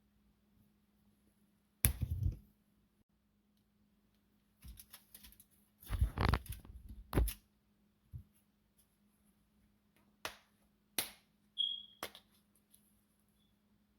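A seasoning shaker being shaken over food in a few short rattling bursts, the loudest about six to seven seconds in, among scattered clicks and knocks of containers being handled.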